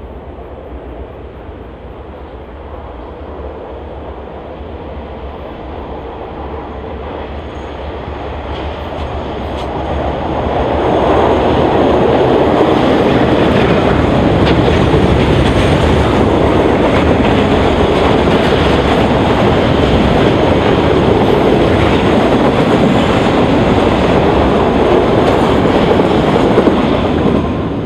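Diesel freight train approaching and then passing close by. The locomotive grows steadily louder over the first ten seconds. Then, from about eleven seconds in, container and tank wagons roll past with loud, steady wheel noise on the rails.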